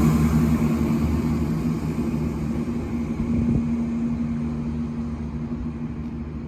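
Diesel train's engine running with a steady note, fading steadily as the train moves away.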